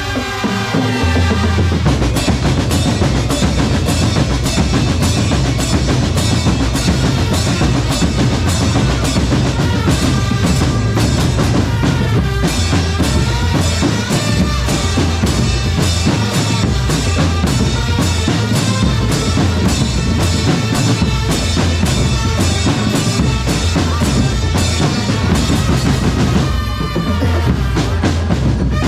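Drum corps playing: bass and snare drums keep a fast, steady beat with snare rolls, with a short break in the beat near the end.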